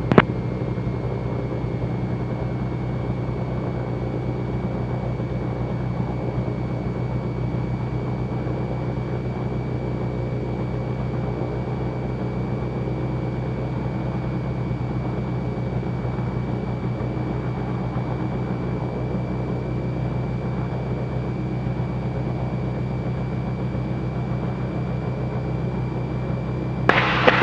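Cessna 310Q's twin piston engines running steadily, heard from inside the cabin, with a thin steady high tone above the engine drone. A brief louder sound comes near the end.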